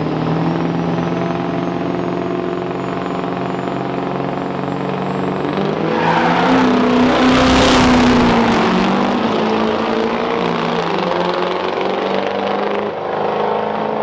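Turbo-diesel drag trucks running hard with a high turbo whistle that climbs slowly. The engines swell to their loudest about seven to eight seconds in, their pitch rising and then falling as a run goes down the strip, then ease off.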